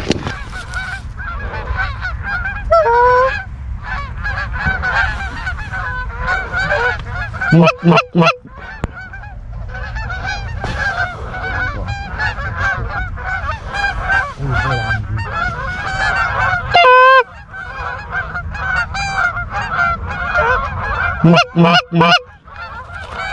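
A flock of geese honking as it comes in, many calls overlapping without a break, with a few much louder honks close by, around a third of the way in, past two-thirds and near the end.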